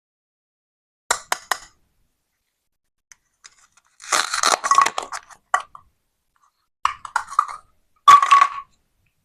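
Hard plastic toy fruit and a toy knife clicking and clattering. Three sharp clicks come about a second in, then a longer stretch of rattling clatter and two shorter clatters near the end.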